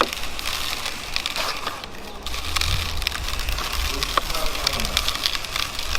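Crackling and sizzling of chicken cooking on a barbecue grill, many small crackles over a steady low rumble.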